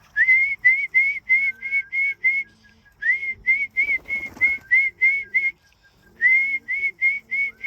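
A person whistling short, evenly repeated notes, about four a second, in three runs with short pauses, each run opening on a rising note: a whistle call to bring racing pigeons down into the loft. A brief rustle comes about four seconds in.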